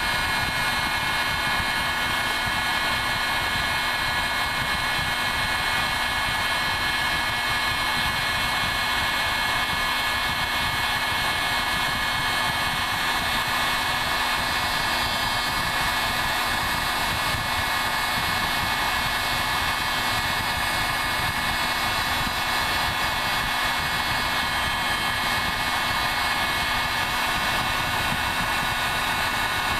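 Harbor Freight heat gun running on its high setting: a steady rush of blown air with a constant high whine from its fan motor.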